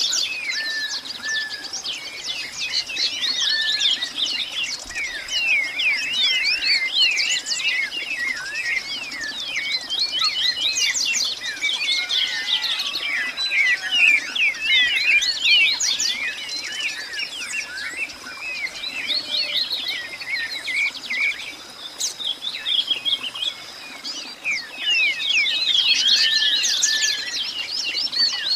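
Many small birds chirping and calling at once in a dense, continuous chorus of short high chirps. A thin, steady high-pitched whine runs under the birds and fades out a few seconds before the end.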